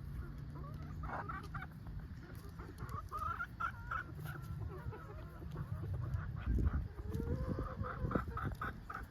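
Several chickens clucking: many short, repeated calls overlapping one another. A low thump comes about two-thirds of the way through.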